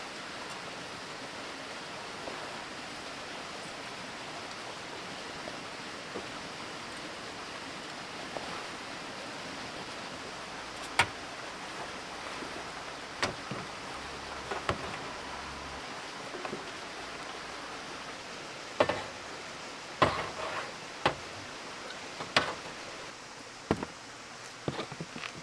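A steady even hiss, with about a dozen short sharp knocks and clacks scattered through the second half, the loudest about halfway through.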